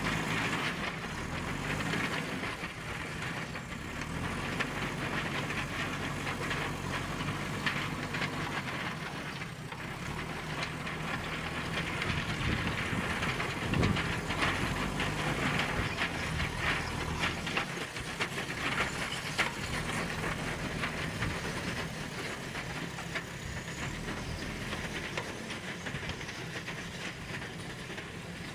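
A JCB 3DX Super backhoe loader working. Its diesel engine runs, its pitch stepping up and down, under a steady hiss and a constant clatter of rattling clicks.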